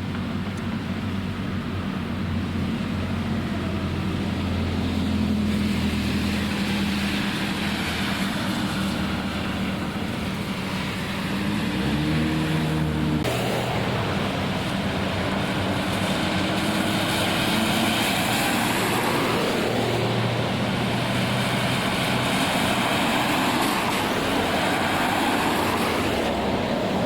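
Cars driving along a flooded road: engines running under a steady rush of tyres through water. The sound shifts abruptly about halfway through.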